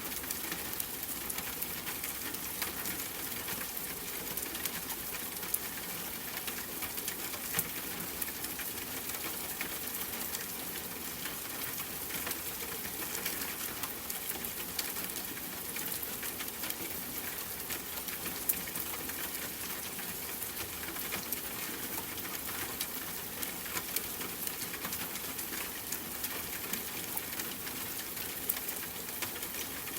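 Steady rain patter, dense with small, sharp ticks of individual drops.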